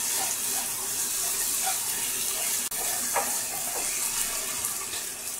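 Onion-tomato masala gravy sizzling steadily in hot oil in a kadhai as a wooden spatula stirs it, with a few soft spatula strokes. The masala is being fried down on medium heat until the oil starts to separate.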